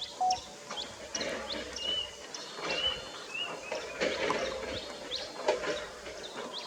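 Birds chirping outdoors: a run of short, high chirps repeated over and over, with a few slurred whistled notes between them.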